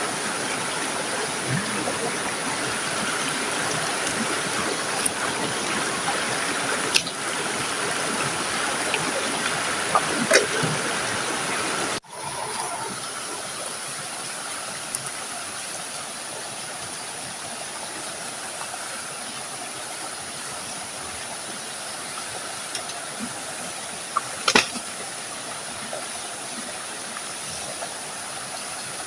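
River water flowing in a steady rush, dropping suddenly to a lower level about twelve seconds in, with a few short sharp clicks over it.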